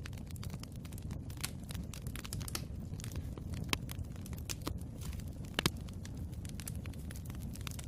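Wood fire burning in a fireplace: a steady low rumble of flames under frequent sharp crackles and pops, with louder pops at about 4 and 5.5 seconds in.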